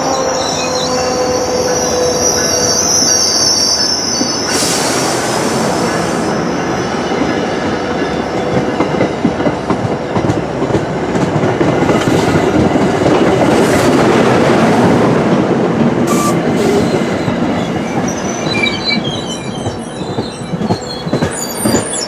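MBTA commuter train rolling slowly into a station, its wheels running and clattering over the rails. High-pitched wheel squeal comes in the first few seconds and again as chirping squeals near the end.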